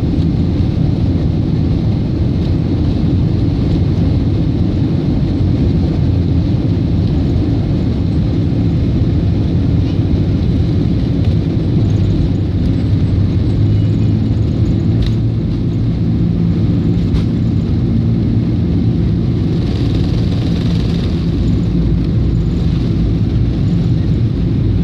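Boeing 747-400 jet engines running, a loud, steady deep rumble; from about halfway through, a low steady hum sits in it as well.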